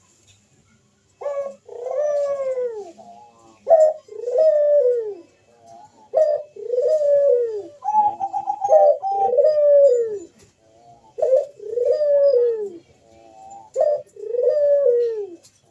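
Barbary dove (burung puter) cooing over and over, starting about a second in: each phrase is a short note followed by a longer coo that rises and falls in pitch, about six phrases in all.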